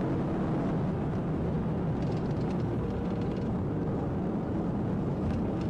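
Steady road and engine noise inside a Dodge Charger patrol car with a 5.7 V8, moving at highway speed in pursuit.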